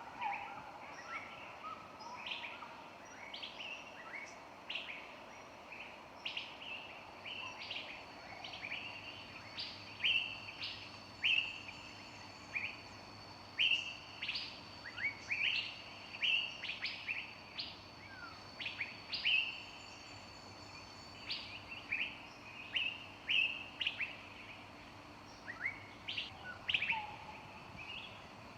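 Several birds chirping, short sharp calls, each dropping quickly in pitch, about one or two a second, over a faint steady background.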